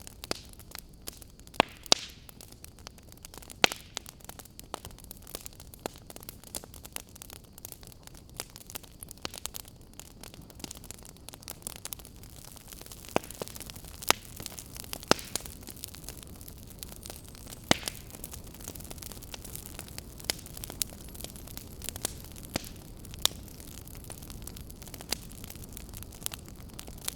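Fire crackling: a steady low rush with irregular sharp pops and snaps all through, a few of them much louder than the rest.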